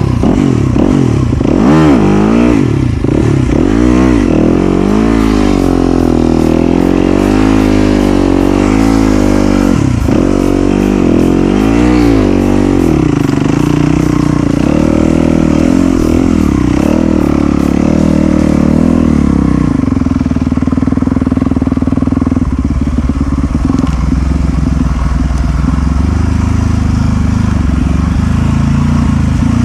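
Off-road dirt bike engine revving hard up and down, over and over, as the rider works the bike free of a root in the mud. After about thirteen seconds it settles into steadier running under way.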